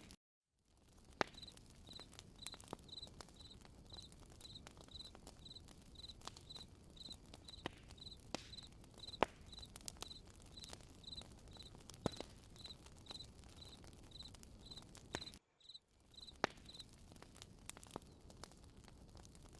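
Campfire crackling softly with scattered sharp pops, and a cricket chirping steadily, about two high chirps a second, that stops a few seconds before the end. The sound drops out briefly twice, near the start and about three-quarters of the way in.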